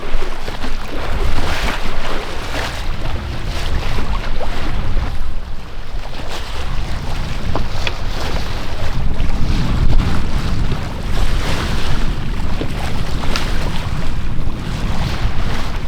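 Wind gusting across the microphone over water rushing along a sailboat's hull, the boat under sail with its engine off.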